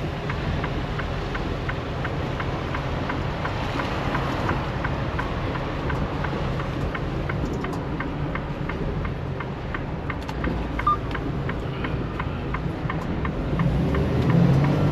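Semi-truck heard from inside the cab while driving, a steady low engine and road rumble, with a light ticking about three times a second running over it. The rumble grows a little louder near the end.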